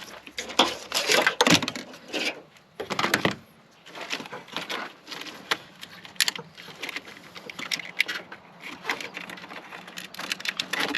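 Irregular clicks, taps and rustling of hands working plastic hose and trim close to the microphone, with a few louder knocks in the first few seconds.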